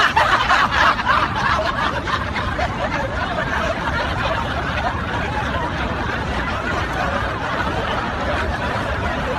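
Several people laughing and chuckling together, loudest at the start and carrying on steadily, over a low background rumble.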